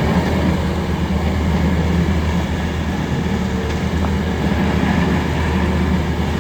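Bobcat S570 skid steer loader's diesel engine running at a steady speed, a constant low drone.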